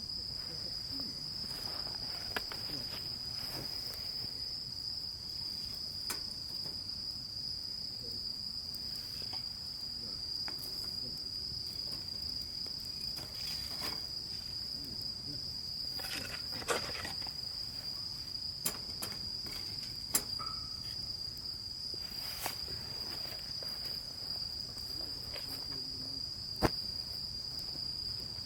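Insects trilling in one steady high note without a break, with a few sharp clicks and knocks scattered through it.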